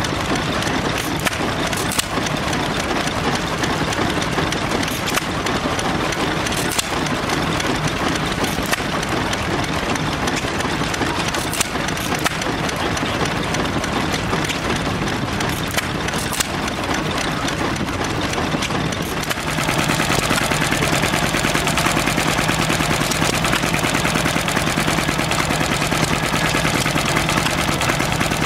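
Vintage engine running steadily, with scattered sharp clicks. About two-thirds of the way in the sound changes abruptly to a louder, steadier engine note with a stronger low hum.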